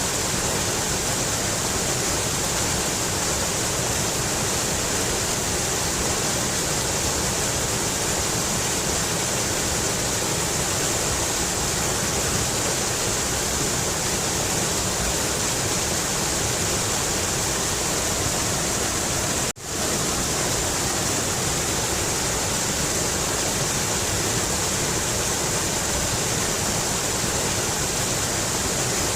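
Mountain river flowing steadily, a constant rush of water, broken once by a momentary dropout about two-thirds of the way through.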